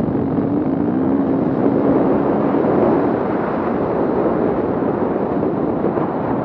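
Off-road vehicle engine running, its pitch wavering a little in the first few seconds, over a steady rush of noise.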